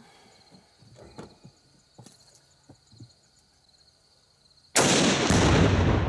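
A 7mm rifle shot sets off a tannerite charge in a refrigerator: a sudden very loud bang near the end, followed by a long rolling boom. Before it, only a few faint clicks.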